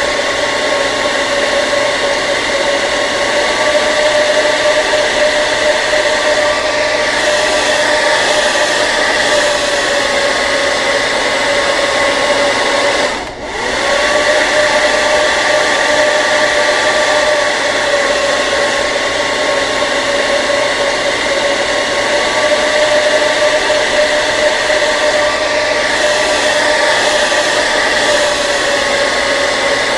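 Hair dryer running steadily: a loud airy rush with a steady motor whine. About 13 seconds in, the sound briefly dips and then comes back, its whine sliding back up to pitch.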